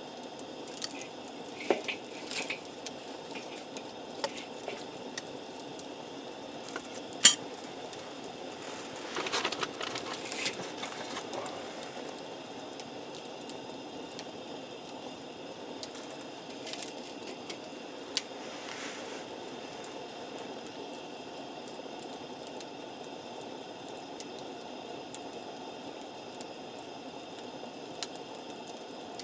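A steady low hiss with scattered sharp clicks and clinks, like small metal or glass items being handled; the loudest click comes about seven seconds in.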